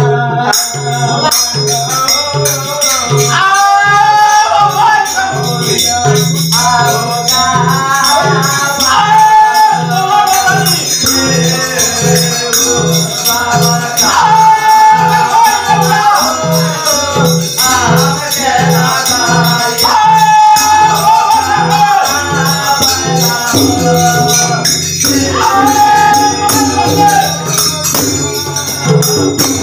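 Devotional bhajan sung by a male voice, accompanied by a steady hand-drum beat and jangling jhal hand cymbals.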